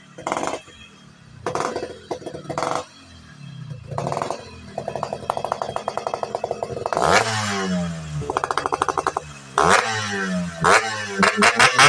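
Yamaha RX King 135cc single-cylinder two-stroke engine through a newly fitted exhaust, puttering at low revs in short blips. From about seven seconds in it is revved up and down repeatedly.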